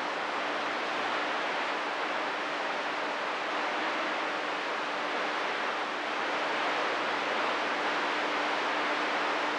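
CB radio receiver hissing with static between transmissions, a steady noise with a faint constant hum underneath.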